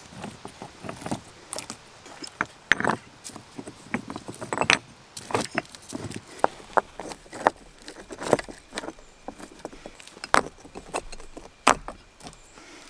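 Stones knocking and clacking against each other as they are handled and set into a dry-stacked stone chimney. It is a series of irregular sharp clicks and knocks, a few of them louder, such as one near the end.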